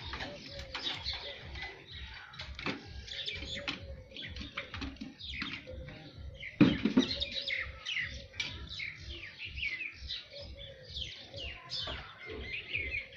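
Small birds chirping busily: many short, high, quickly falling calls overlapping one another. A single loud low thump comes about halfway through.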